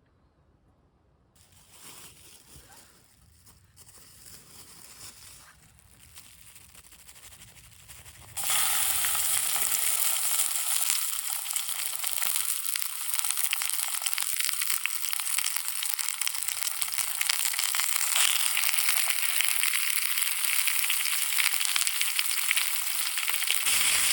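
Food sizzling in a hot pan, a steady crackling hiss that starts suddenly about eight seconds in after a few seconds of faint handling sounds.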